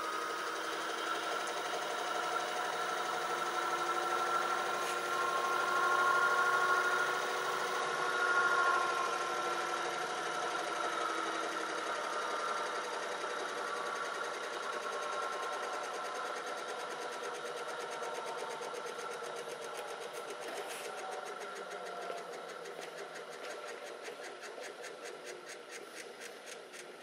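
Washing machine drum spinning in the final spin of the rinse cycle. The motor whine climbs a little at first, then slowly falls in pitch and fades as the drum winds down at the end of the cycle. A fast, even ticking comes in as it slows.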